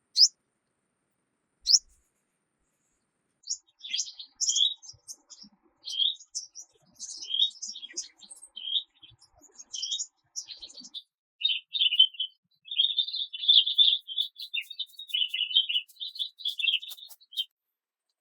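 Songbirds singing: two short rising chirps near the start, then a series of separate high whistled phrases from about four seconds in, turning into a continuous high warbling song from about twelve seconds in until shortly before the end.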